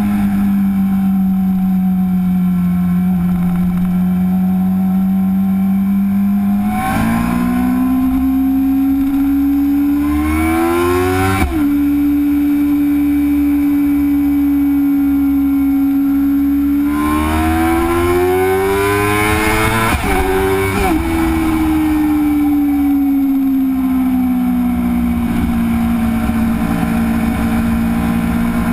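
2008 Suzuki GSX-R 600's inline-four engine running through an M4 aftermarket exhaust, idling steadily. It is revved twice, about seven and seventeen seconds in, each rev climbing over a few seconds and then dropping sharply back to idle.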